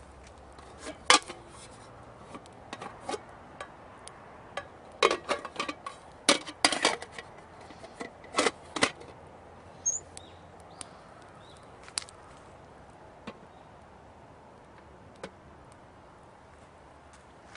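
Irregular sharp clicks and knocks of hard objects being handled, several in quick clusters in the middle.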